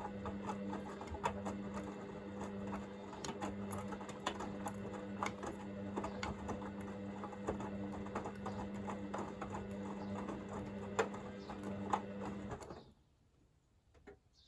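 Hoover VisionDynamic washing machine tumbling its drum during the heat-to-40 °C phase: a steady motor hum with irregular clicks and knocks from the load and water. The drum stops near the end.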